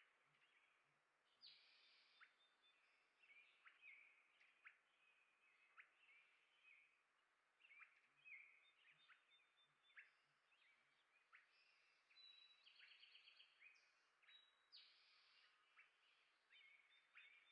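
Faint chirping of small songbirds: many short, sharp calls overlapping one another, with a few brief trills.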